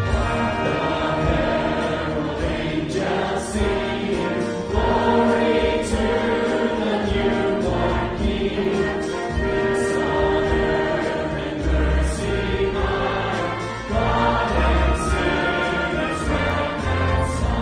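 Choir singing a Christmas carol with instrumental accompaniment.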